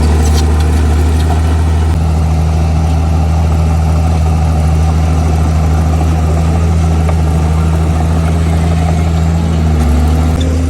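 Heavy diesel engine of earthmoving equipment running steadily with a deep, even hum, its speed shifting slightly near the end.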